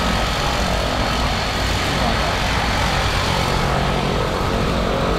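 Steady drone of a propeller aircraft's engine, a skydiving plane, with a constant low hum and rushing noise.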